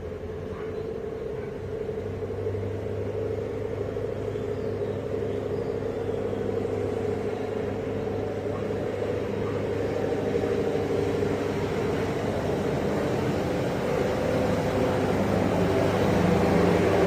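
Heavy vehicle engine running with a steady low hum that grows gradually louder, as if approaching.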